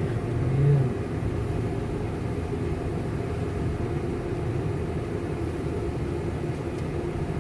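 Steady low rumble of an automatic car wash's machinery running, together with the idling car, heard from inside the car's cabin.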